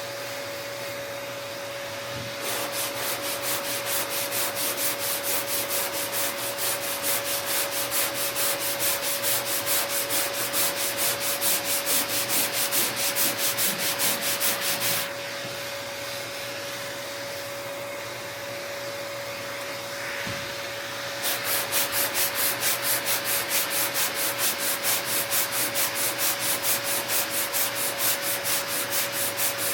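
Sanding block being pushed back and forth by hand over body filler on a car fender, a rhythmic rasp of about three strokes a second. It pauses briefly at the start and again for several seconds about halfway through.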